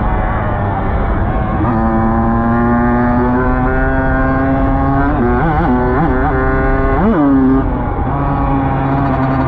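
Dirt bike engine running steadily, then revved up and down quickly three times a little past halfway, the last rev the biggest.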